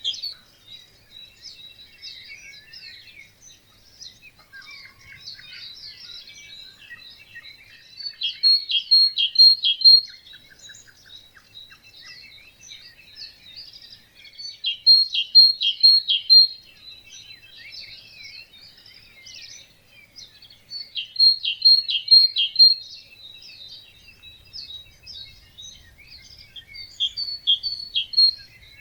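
Dawn chorus of many songbirds chirping and singing over a wetland. One nearby bird repeats a loud short phrase of four or five quick falling notes about every six seconds, four times.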